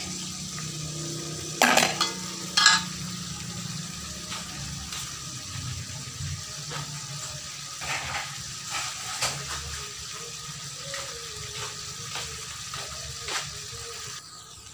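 Diced marinated chicken frying in butter in a wok: a steady sizzle with scattered small pops. About two seconds in, the spatula clacks twice against the pan.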